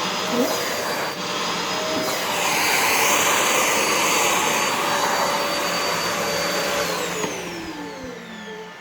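Vacuum cleaner running with a steady motor whine and airflow noise. About seven seconds in it is switched off, and the motor's whine falls in pitch as it spins down.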